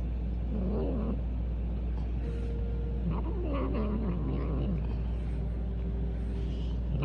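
Domestic cat yowling twice: a short call about half a second in, then a longer, drawn-out call around three seconds in that falls in pitch. It is the cat's annoyed, complaining cry.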